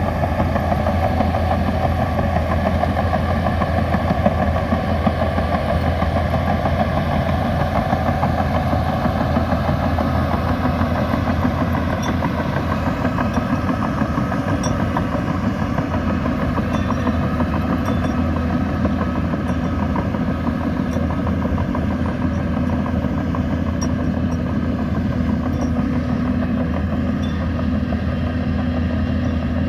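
Bulldozer's diesel engine running steadily, with faint high ticks in the second half.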